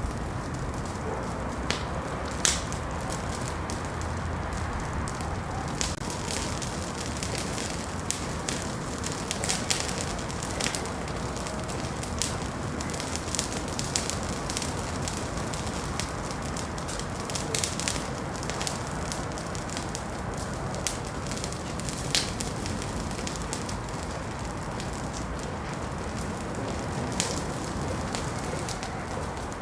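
Wood fire burning in a fireplace: a steady low rush of flames with frequent irregular crackles and occasional sharper pops.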